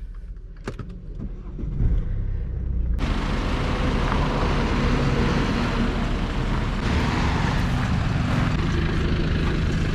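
Car on the move: steady engine and road noise. It starts as a quieter, muffled low rumble with a couple of knocks, then jumps abruptly to louder running noise about three seconds in.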